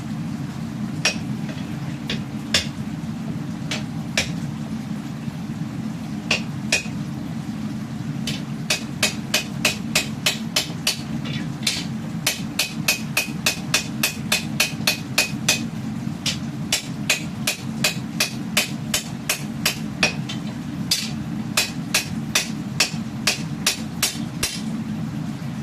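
Hammer blows on steel being forged into a katana blade, each strike with a short metallic ring. The first blows are spaced out, then come in quick runs of about two to three a second, over a steady low hum.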